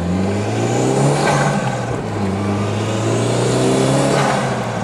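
Toyota MR2 Turbo's turbocharged 2.0-litre four-cylinder engine pulling hard under acceleration, heard from inside the cabin. The revs climb twice, dropping back briefly between the climbs about a second and a half in.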